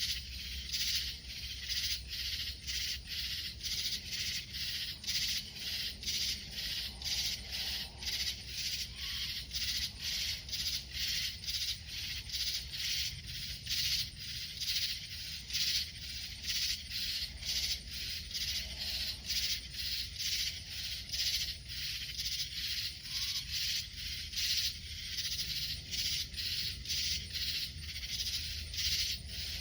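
A high-pitched chorus of calling animals pulsing steadily at about two beats a second.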